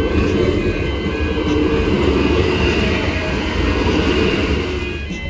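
A Melbourne High Capacity Metro Train, an electric multiple unit, runs past close by: a steady rumble and rush of wheels on rail that eases off near the end.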